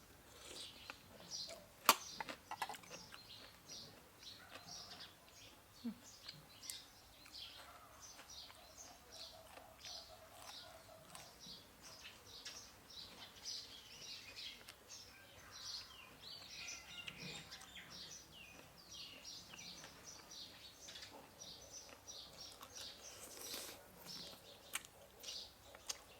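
Small birds chirping steadily in quick short calls, with a few sharp clicks mixed in; the loudest click comes about two seconds in.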